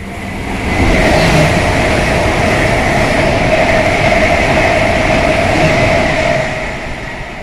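Train passing through at speed without stopping: a loud rush of wheels on rail with a steady high whine, building about a second in and fading away near the end.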